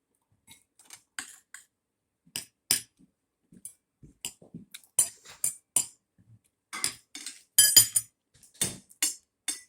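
Eating utensils clinking and scraping against a plate in irregular strokes, busiest and loudest about eight seconds in.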